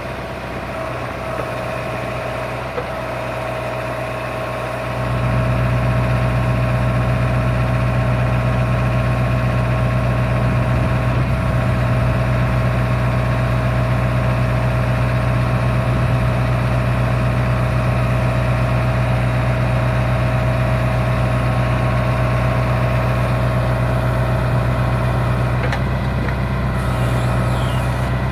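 Tractor engine running steadily with a constant whine; about five seconds in it grows louder and deeper and then holds steady.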